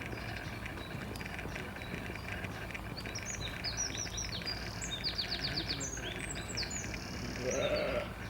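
A bird singing a quick series of high chirps and short trills, starting about three seconds in, over steady background noise. A brief, louder, lower-pitched sound comes just before the end.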